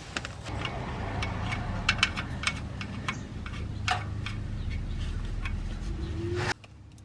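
Scattered light clicks and clinks of metal parts or tools being handled, over a steady low hum that cuts off suddenly near the end.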